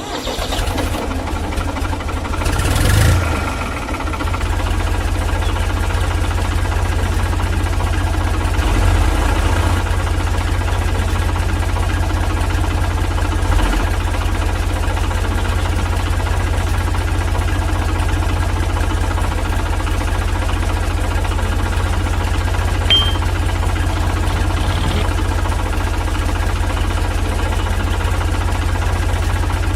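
Miniature diesel engine of a model well water pump running steadily at idle, with a brief swell in loudness about three seconds in.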